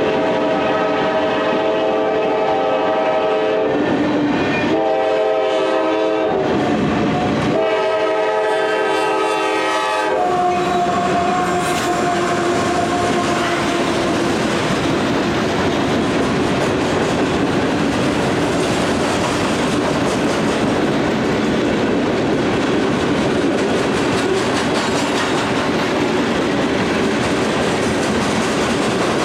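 Freight locomotive air horn sounding three long blasts over about the first ten seconds, with two short breaks between them. Then comes the steady noise of the freight train rolling past on the rails.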